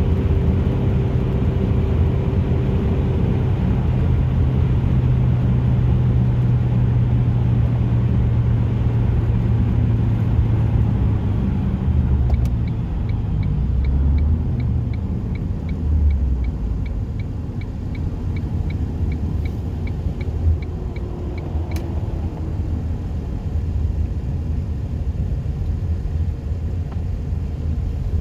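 Ford Focus 2.0 Zetec four-cylinder engine through an aftermarket race header, 2.5-inch downpipe and exhaust, droning at a steady note for the first twelve seconds or so. The note then shifts and settles quieter. A light, regular ticking, two or three a second, runs through the middle stretch.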